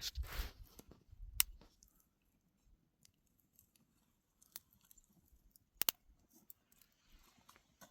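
A short rustling scrape with low thumps, then scattered sharp clicks, including a quick double click about six seconds in.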